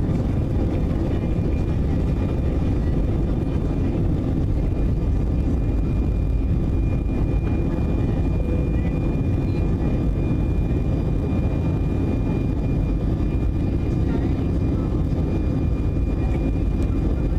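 Steady cabin noise of an Airbus A319 airliner in flight: a constant low rush of engine and airflow from its CFM56 turbofans, with a few faint steady whining tones above it.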